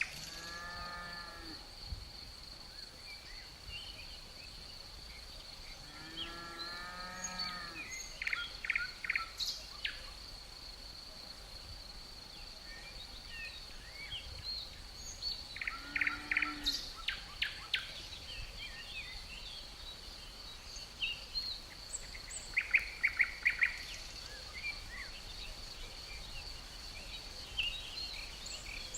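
Forest ambience: crickets keep up a steady high drone while songbirds call in bursts of quick repeated notes several times. Three drawn-out low calls with a rich, buzzy tone come near the start, at about six seconds and at about sixteen seconds.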